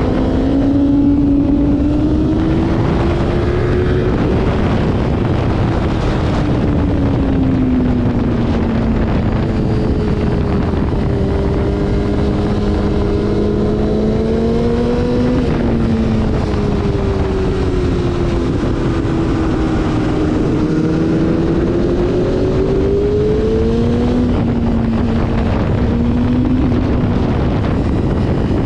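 Motorcycle engine at speed on a racetrack, its pitch climbing and falling as the throttle is worked through corners and straights, with sudden drops in pitch about halfway through and again near the end, as at gear changes. Heavy wind rush on the microphone runs under it.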